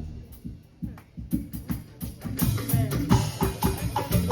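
Drums starting up as the choir's singing ends: a few scattered hits, then a steady beat with deep tones from about two seconds in.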